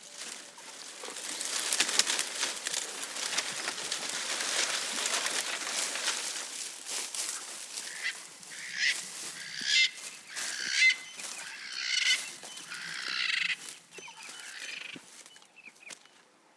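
Leaves and twigs rustling and crackling as a giraffe browses, then a bird giving a run of about five calls roughly a second apart.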